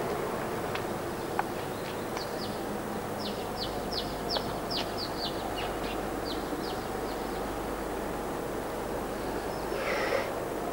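A bird chirping: a run of short, high, falling chirps, about two or three a second, over steady outdoor background noise. Near the end there is one brief, louder sound.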